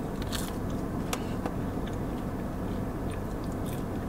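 A person chewing a soft crinkle-cut french fry with the mouth close to the microphone: scattered small wet clicks and smacks, over a steady low hum.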